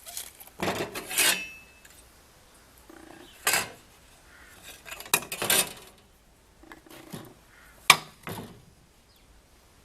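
Tools and scrap-wood pieces being handled, giving short bursts of clattering, knocking and scraping: about five clusters separated by quiet gaps, the sharpest knock near the end.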